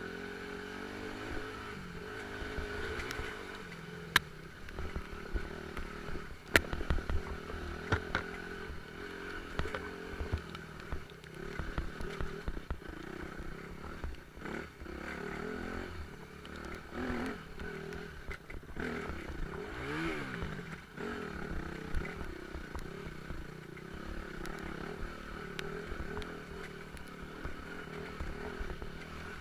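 Motorcycle engine running while riding, its revs rising and falling, with a few sharp knocks and some rattling from the bike along the way.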